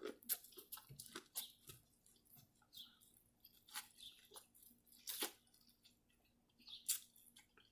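A person eating close to the microphone: faint, irregular chewing with small crunches and wet mouth clicks, one louder click a little past five seconds in.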